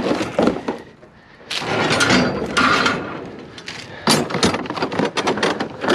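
Scraping, rattling handling noise broken by short knocks, with a quick run of clanks about two-thirds of the way through.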